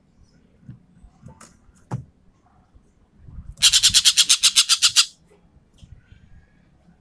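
Sumatran ekek keling bird calling: a few short sharp notes, then midway a loud, rapid rattling burst of about nine notes a second lasting a second and a half, the 'tembakan' call.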